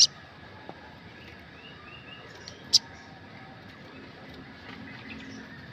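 Sogok ontong (sriganti) sunbird calling: sharp, high, very short chip notes, one at the very start and one nearly three seconds in. Faint softer twitters sound between them.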